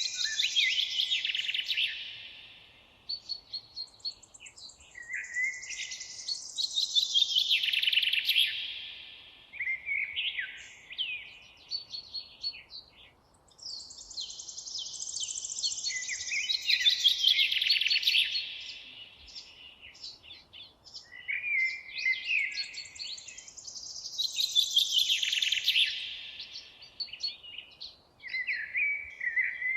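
Songbird singing in a forest: long, busy phrases that tumble downward, repeated about every eight seconds, with short chirps in between.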